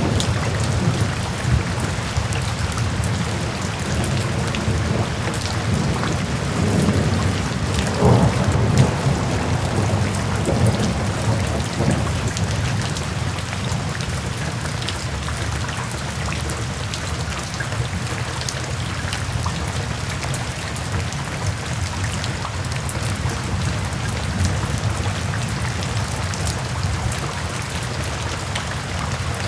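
Steady rain pattering down, with a low rumble of thunder through the first half that fades away.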